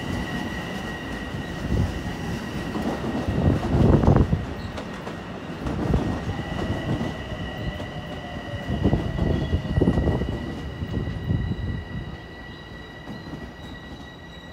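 Long Island Rail Road Bombardier M7 electric train pulling away, its wheels rumbling with a series of heavy knocks over the rail joints, fading near the end as the last car clears. A steady high whine runs underneath.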